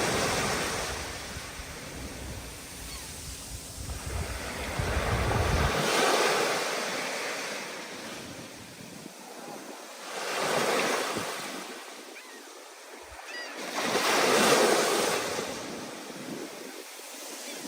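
Stormy ocean surf: waves breaking in slow swells about every four seconds, each a rising and fading rush. A low wind rumble on the microphone underlies it and drops away about six seconds in.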